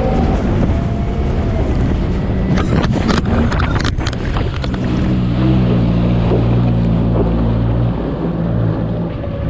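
Jet ski engine running under way, with water rushing and wind buffeting the microphone. A steady engine tone settles in about halfway through, and a burst of crackles comes a few seconds in.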